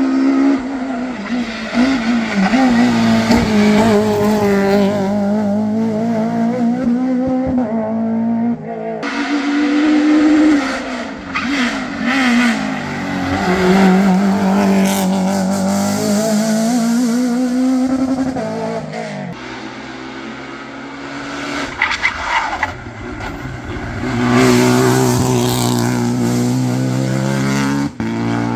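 Modern rally cars driven hard on a special stage: engines revving up and dropping back through gear changes, with the sound cutting abruptly from one pass to the next several times.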